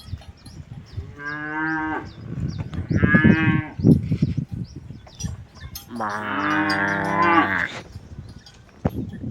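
Cattle mooing: two short moos, then a longer, drawn-out moo about six seconds in.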